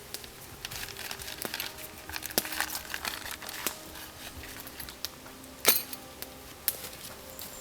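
Irregular crinkling and crackling with scattered sharp clicks, the loudest about two-thirds of the way through.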